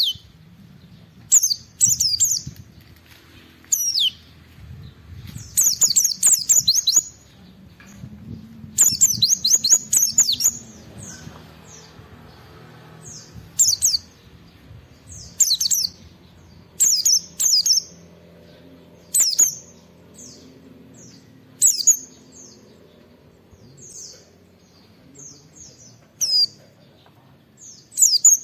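A white-eye (pleci) singing: short bursts of high, rapid, sweeping chirps every second or two, with a couple of longer run-on phrases early on.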